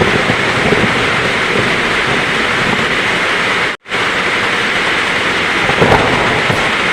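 Heavy rain falling steadily in a thunderstorm, with a faint low rumble near the end. The sound cuts out for a split second a little past halfway.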